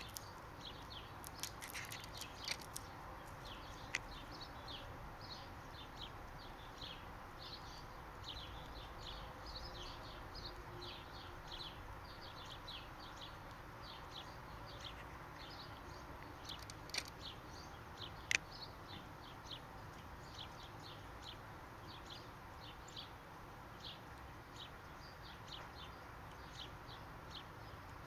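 Small birds chirping in short, repeated high notes, a few each second, over a faint outdoor background, with a few sharp clicks.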